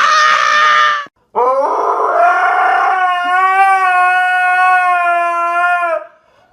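A dog howling: a short howl that breaks off about a second in, then one long, slightly wavering howl that ends shortly before the close.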